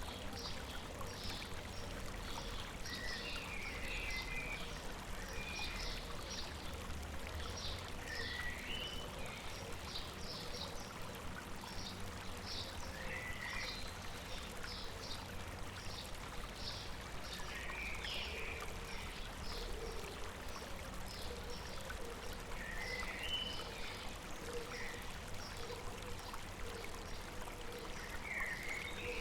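River water running steadily over rocks. Birds call throughout: a stream of short high chips, with brief twittering phrases every few seconds.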